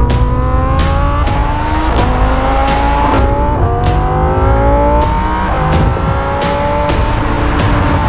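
Lamborghini Huracán EVO's V10 engine accelerating hard through the gears, its pitch climbing and then dropping sharply at each upshift, several times over, with sharp cracks.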